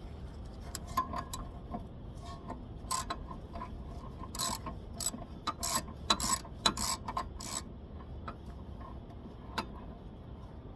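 Hand ratchet clicking in short, irregular runs while tightening the 14 mm brake caliper bracket bolts.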